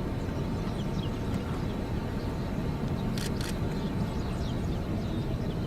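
Steady low outdoor rumble with no clear single source, broken by two quick clicks a little past the middle.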